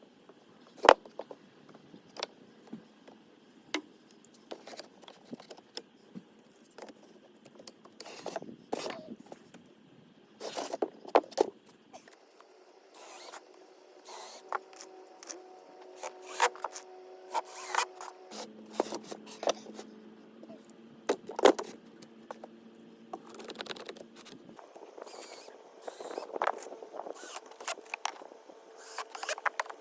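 Handling of 2x lumber and tools: scattered sharp knocks and clicks of boards and hardware, with scraping and rubbing. From about halfway in, a steady low hum is added, and it shifts pitch once.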